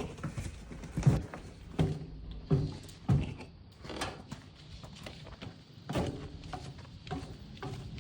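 Footsteps and dull thuds: a series of separate knocks, the strongest coming roughly a second apart in the first half.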